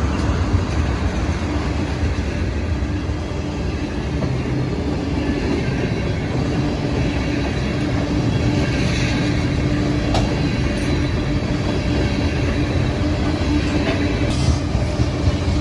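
CSX loaded ethanol freight train rolling past: a steady rumble of wheels on rail, with a few sharp clicks about ten seconds in and again near the end.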